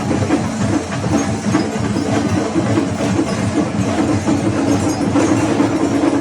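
Kerala temple-festival percussion ensemble of drums and cymbals playing a fast, dense rhythm, with a steady low tone held underneath.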